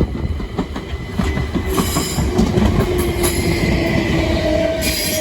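Electric passenger train running past the platform: wheels clattering over rail joints in quick repeated clicks over a steady rumble, with a steady motor whine.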